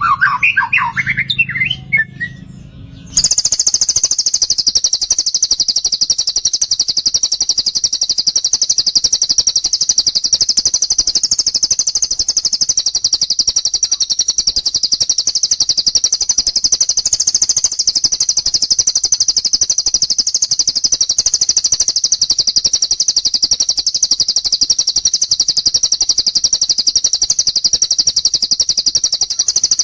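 A short phrase of bird chirps, then, about three seconds in, a lovebird's long, unbroken ngekek trill starts abruptly: a very high, rapid chatter that runs on without a break.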